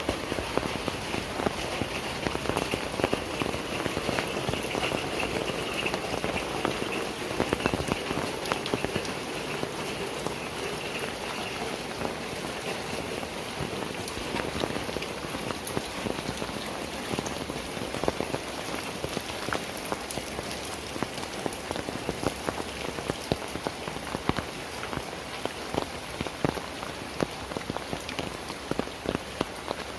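Heavy rain falling steadily, with many sharp, close raindrop hits over a dense hiss.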